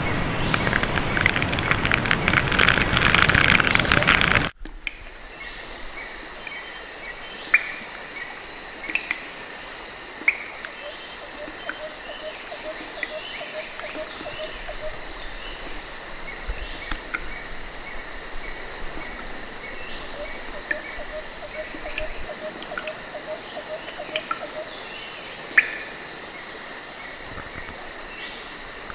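Jungle insect chorus, a steady high-pitched buzzing of crickets and similar insects, with scattered short bird chirps and a pulsing trill that comes and goes. It opens with a few seconds of loud rushing noise that cuts off suddenly.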